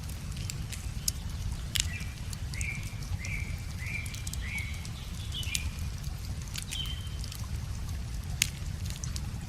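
Wood fire crackling with scattered sharp pops, the loudest about eight seconds in, over the steady low rush of a river. A bird sings a quick run of about six short, repeated chirps through the middle, then one more note shortly after.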